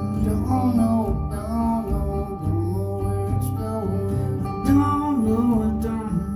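Live band playing a country-rock song, with strummed guitar under a melody line that slides up and down in pitch.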